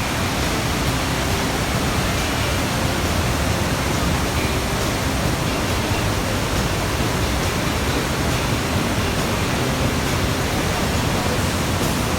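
Vazhachal waterfall's water rushing over the rocks, a steady, even sound of falling water with no change.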